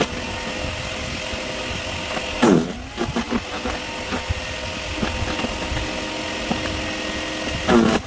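Sun Joe CJ601E 14-amp electric wood chipper running. Twice, about two and a half seconds in and again near the end, its motor dips sharply in pitch and comes back up as a branch loads it, with cracking clicks from the wood being chipped after the first dip.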